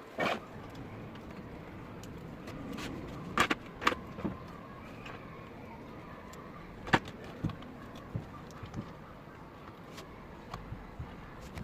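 A handful of sharp, irregular clicks and knocks of metal parts being handled on the sewing machine, the loudest about seven seconds in, over a steady background noise.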